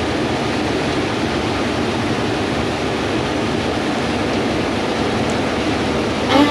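Steady rushing noise of combine harvesters at work in a wheat field, with no distinct engine note standing out.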